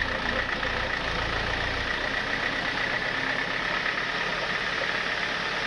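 Sawmill machinery running steadily: a constant mechanical hum with a high whine over it, the low rumble dropping away about two seconds in.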